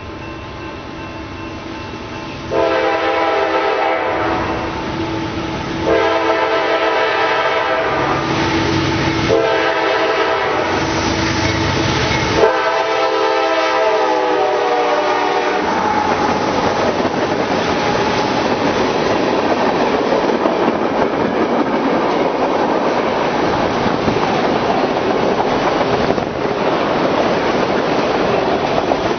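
Diesel freight locomotive horn sounding four blasts of about three seconds each. The train then passes close by, its wheels rumbling and clacking on the rails.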